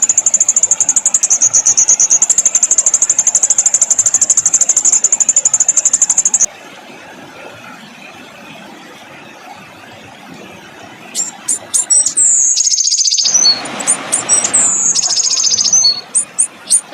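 Songbird song from a bird-tutoring recording: a very fast, high rolling trill for about six seconds, then a pause, then sharp high notes, downward-sliding whistles and a harsh burst near the end.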